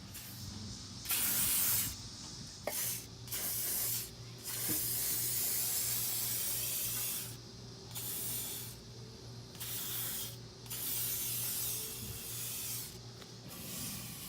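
Aerosol can of silicone lubricant spraying in a series of hissing bursts of varying length, the longest about three seconds, while lubricating a camper's slide-out. A faint steady low hum runs underneath.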